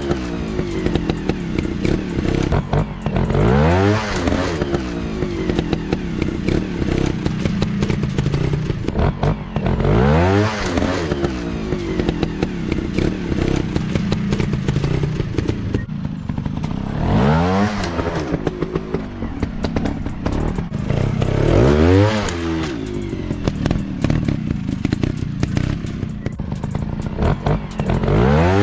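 Trail motorcycle engines running, with repeated throttle blips every few seconds where the engine note rises sharply and falls back, over a steady lower engine note. Scattered clattering and scraping clicks run through it.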